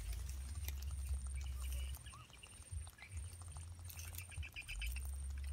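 Small birds chirping in short rapid trills twice, over a low rumble and faint rustling and clicking as twine is wound around a mud crab's claws.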